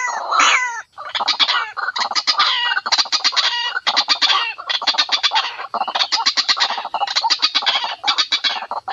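White-breasted waterhen (ruak-ruak) calling: a few falling notes end about a second in, then runs of fast, harsh clucking notes repeated many times a second in bursts with short breaks, as used for a lure recording.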